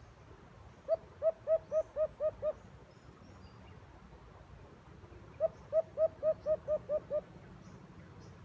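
A bird calling: two runs of seven quick, evenly spaced notes, about four seconds apart.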